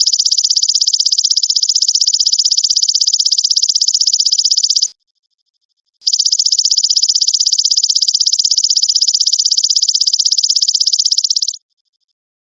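Belalang emas (golden grasshopper) stridulating: a loud, rapidly pulsed high buzzing trill in two long bouts, the first stopping about five seconds in and the second starting a second later and running for about five and a half seconds.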